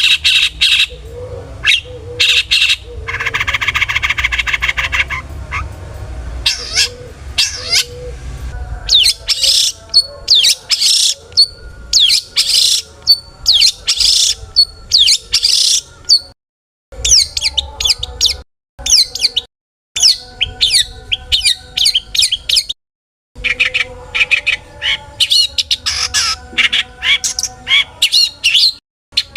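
Long-tailed shrike (cendet) singing a fast, varied song packed with mimicked phrases: rapid sharp chirps and harsh squawking notes, with a buzzy rattle a few seconds in. The song breaks off to silence briefly several times.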